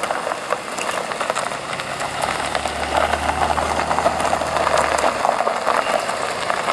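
A car engine running slowly as a car rolls past, a low hum that swells in the middle and fades about five seconds in, over a steady crackling rattle.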